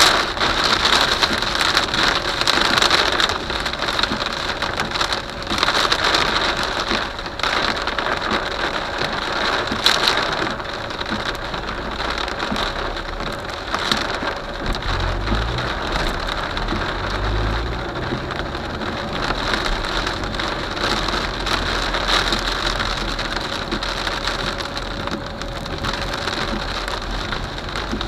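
Heavy rain falling steadily onto a hard surface, a dense hiss full of small drop impacts, with a low rumble of thunder about halfway through.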